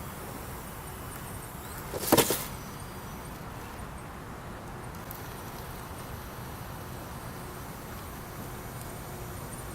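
A quick cluster of sharp knocks about two seconds in, over a steady faint hiss of background.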